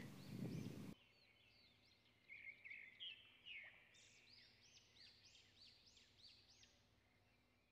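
Near silence with faint birdsong in the background: a run of short, arching chirps repeated over and over.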